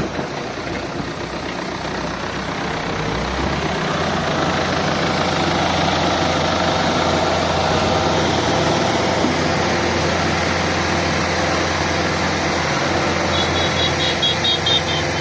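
Heavy diesel engine of a construction machine running steadily, speeding up about three to four seconds in and then holding at the higher speed. Near the end comes a quick run of short high-pitched beeps.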